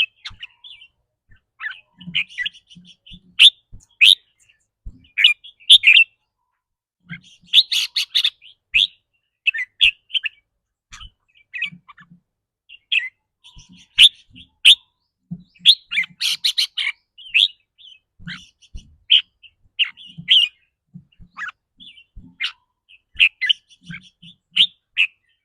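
Red-whiskered bulbul singing in short, bright chirpy phrases that come in quick succession, one after another, with scattered sharp clicks between them.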